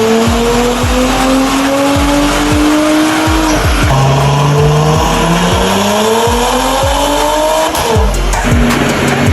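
Porsche Macan S V6 engine and exhaust accelerating hard: the revs climb, drop at an upshift about three and a half seconds in, climb again, and fall away near the end. Background music with a steady beat plays alongside.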